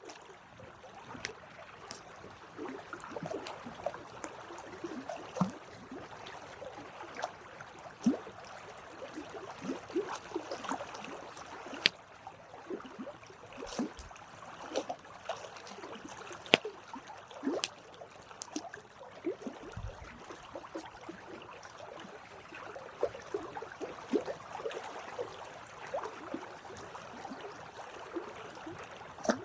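Campfire burning: wood crackling and hissing, with irregular sharp pops scattered throughout.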